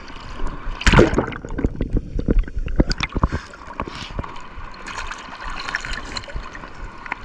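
Shallow seawater splashing and sloshing, broken by many irregular knocks and clicks, the loudest about a second in.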